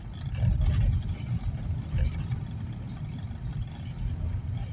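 Low, steady rumble of a car heard from inside the cabin: engine and road noise.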